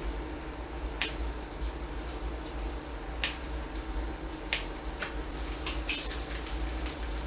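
Chopsticks and spoon clicking against dishes during a meal: several sharp, irregular clicks over a steady low hum.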